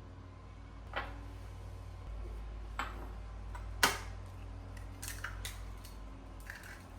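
Scattered clicks and knocks of kitchen utensils and dishes, about half a dozen, while ingredients go into a stand mixer bowl, the loudest knock about four seconds in.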